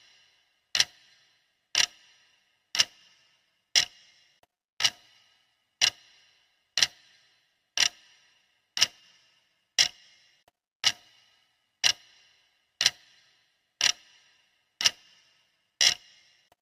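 Clock ticking steadily, one sharp tick each second, each tick trailing off in a short ring.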